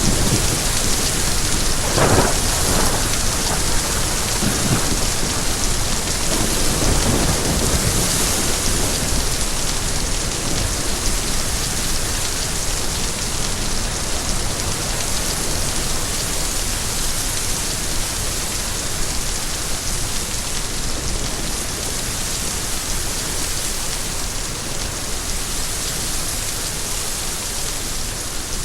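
Steady rain falling, with a clap of thunder about two seconds in and more thunder rumbling on until about eight seconds.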